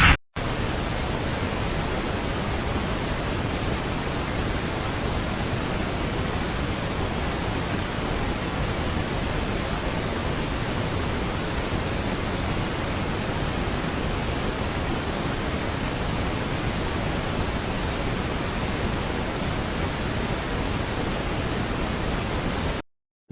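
A steady, even rushing noise that does not change, with a short break to silence just after the start and again near the end.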